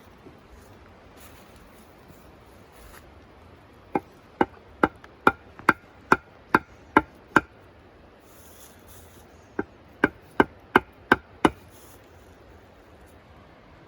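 A hand tool striking wood in two runs of sharp, evenly spaced blows, about two and a half a second: nine blows, a short pause, then six more.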